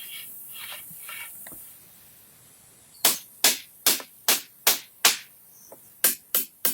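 Hand hammering during a wooden shelter build: a faint scuffing, then about three seconds in a steady run of sharp hammer blows, roughly two or three a second, pausing briefly and starting again near the end.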